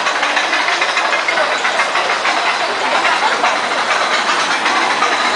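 Roller coaster train running along its track, a steady loud rattling and rumble of wheels on rails.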